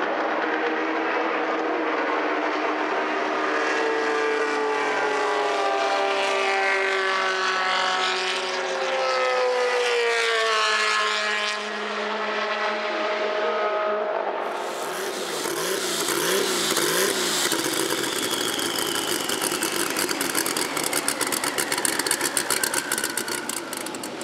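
Historic racing car engines passing at speed, their pitch climbing and then dropping away as the cars go by. About fourteen seconds in, the sound switches abruptly to a harsher, brighter engine note, which breaks into a fast crackle near the end.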